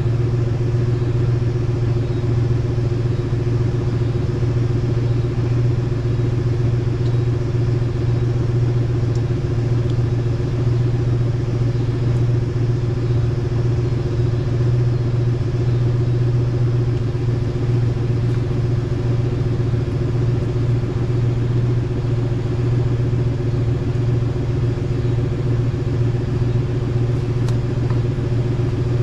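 Toyota Sequoia's 4.7-litre V8 idling steadily with its exhaust freshly cut open. It still sounds quiet for a V8, with not much of a difference from stock.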